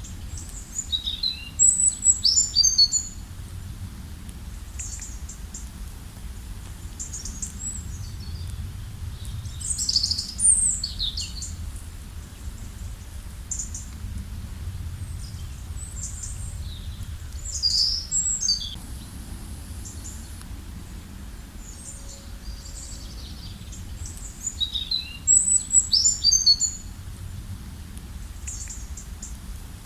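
Songbirds singing in short bursts of high, quick chirps and trills, a phrase every several seconds, over a steady low rumble.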